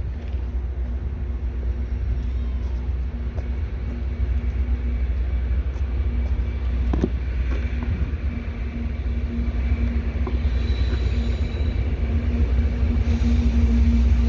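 Union Pacific intermodal freight train passing, a heavy, continuous low rumble with a steady hum, growing louder toward the end.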